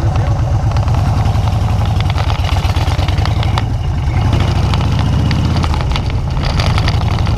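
Motorcycle engine running steadily, a fast, even low pulsing throughout.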